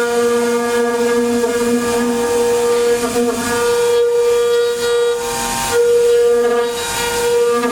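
Five-axis CNC router's spindle running with a steady high whine while the bit engraves wood, with two louder bursts of hiss in the second half as the cut bites in.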